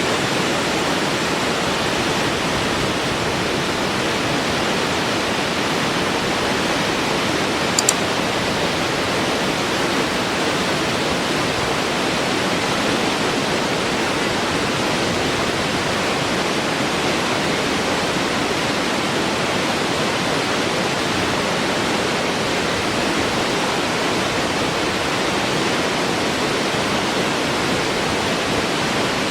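Waterfall rushing, a steady even roar of falling water with no change in level. A brief faint click about eight seconds in.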